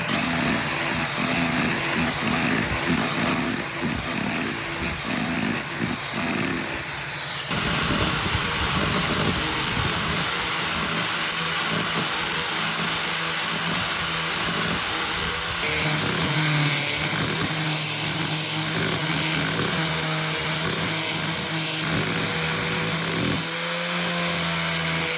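Power tools running on wood in a workshop, in several edited stretches that change abruptly about a third and two-thirds of the way in.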